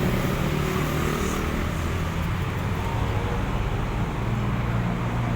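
Steady low hum of a running vehicle engine over street traffic noise.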